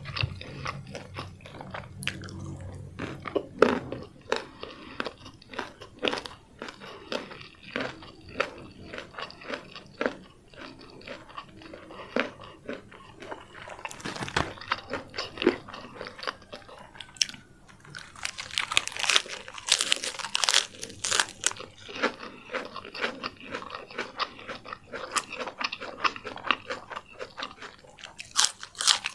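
Close-miked chewing and crunching of crispy fried chicken and rice eaten by hand, in irregular bites. There is a denser spell of crunching about two-thirds of the way in, and a crisp bite of lettuce near the end.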